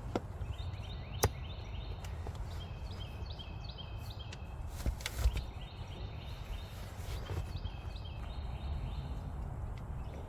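Outdoor ambience with a bird calling in several short runs of quick, repeated high notes, over a steady low rumble of wind on the microphone. A few sharp knocks sound about a second in and again around five seconds in.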